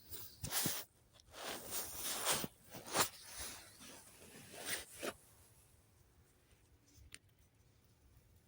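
A zipper drawn in several short pulls, with rustling fabric, over the first five seconds, followed by quiet.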